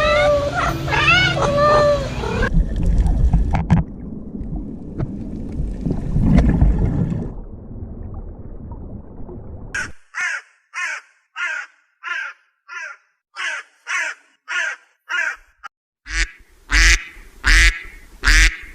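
Duck quacking in a run of short, evenly spaced calls, about two a second, getting louder near the end. Before the quacking there is a stretch of low, noisy rumble, and the opening has a few pitched, bending bird calls.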